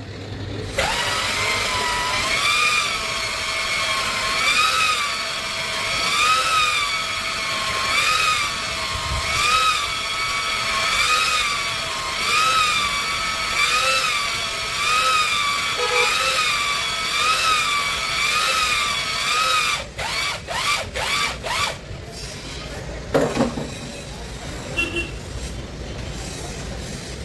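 Electric drill spinning a cylinder hone in a Cummins 6BT bore, its motor whine rising and falling about every two seconds as the hone is stroked up and down under changing load. The drill stops about two-thirds of the way through, followed by scattered clicks and knocks.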